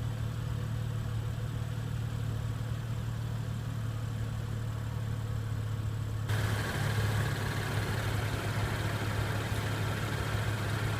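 A car engine idling steadily with a low hum. About six seconds in, the background noise abruptly gets louder and brighter while the hum carries on.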